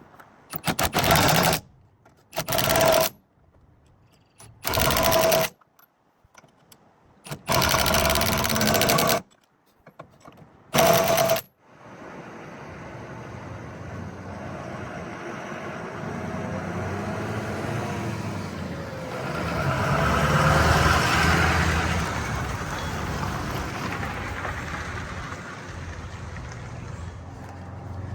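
A power tool runs in five short bursts, each under two seconds, with a rapid mechanical rattle. Then a steady mechanical running noise builds up, is loudest about twenty seconds in and eases off.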